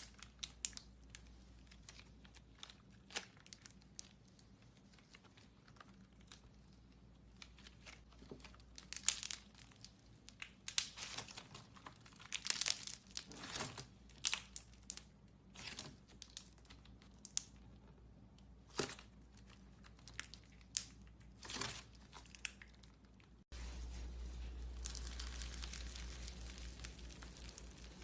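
Slime being squeezed and stretched by hand, a run of sticky crackles and pops. About 23 seconds in the sound changes abruptly to a denser, steadier crackle over a low hum.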